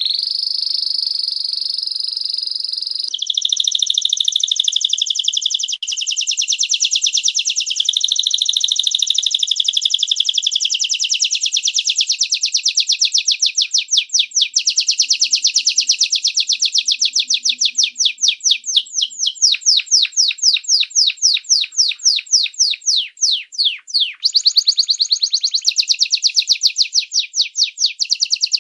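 A domestic canary singing a long, unbroken song. It opens with fast rolling trills. In the second half the song shifts to runs of distinct, evenly repeated sweeping notes.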